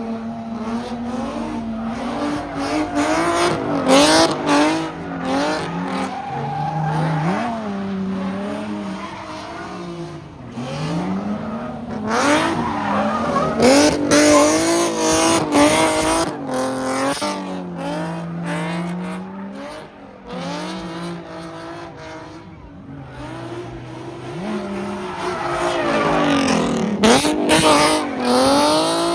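Cars spinning in a pit: engines revving up and down again and again over squealing tyres, with several louder surges and a quieter lull about two-thirds of the way through.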